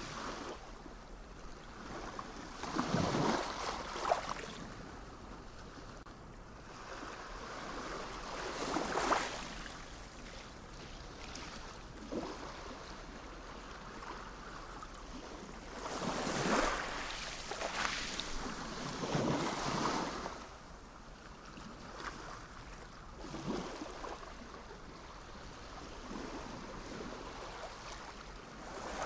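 Sea waves breaking and washing in at irregular intervals, each one swelling up to a rush of surf and then ebbing back to a steady low wash.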